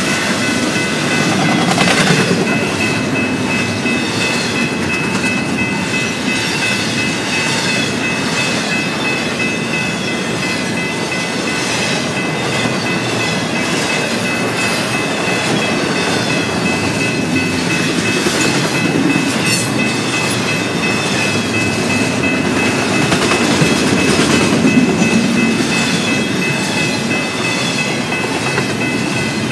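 Double-stack intermodal freight cars rolling steadily past, a continuous rumble of steel wheels on rail with light clicking at the rail joints and a steady high ringing tone over it.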